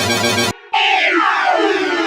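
Digitally altered vehicle warning-sound effects. A buzzy pitched blast with a fast warble cuts off abruptly about half a second in. After a brief gap, a new sustained tone begins whose upper notes sweep downward.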